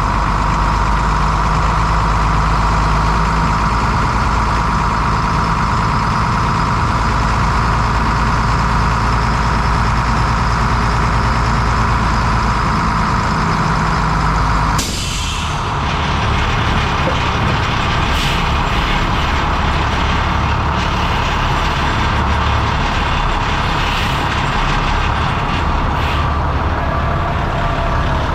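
1996 International 4900 truck's diesel engine idling steadily. About halfway through, the sound changes abruptly to a different steady engine sound with faint ticks.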